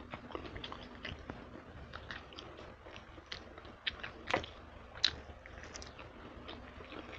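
A person chewing and biting a chicken wing close to the microphone: a run of small wet mouth clicks and crackles, with two louder crunches past the halfway point.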